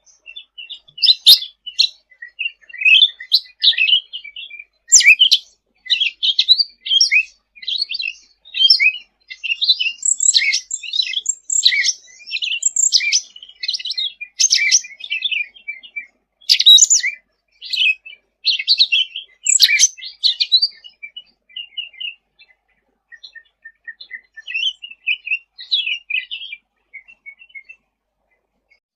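Cucak ranting singing in a busy, rapid run of high chirps and short trills, thinning to sparse, softer notes about two-thirds of the way through.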